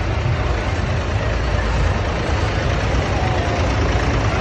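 Tractor diesel engines running steadily, a loud, continuous low engine sound.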